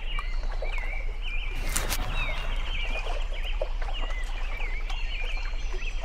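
Small birds chirping in quick repeated short calls, over a steady low hum, with one sharp click about two seconds in.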